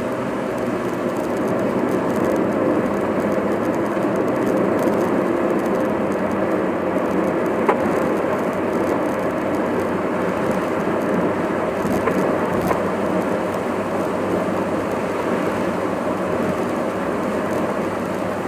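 Steady road and engine noise of a car driving, heard from inside the cabin, with a single sharp click about eight seconds in.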